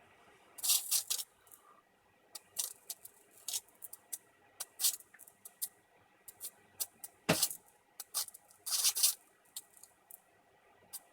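High-voltage arc from a small microwave flyback transformer driven by a ZVS driver, crackling and hissing in irregular bursts, with a sharp snap about seven seconds in.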